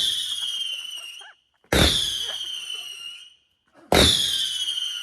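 Whistling fireworks going off one after another, about two seconds apart. Each starts with a sharp pop and a shrill whistle that falls slightly in pitch and fades over about a second and a half; three whistles are heard, the first already sounding at the start.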